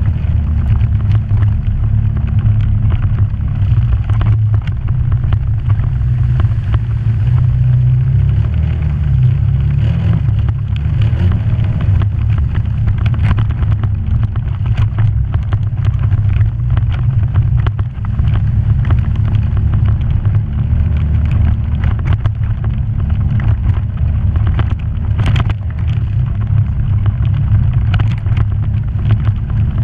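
Off-road vehicle engine running steadily while driving a rough trail, with frequent small knocks and rattles over the drone.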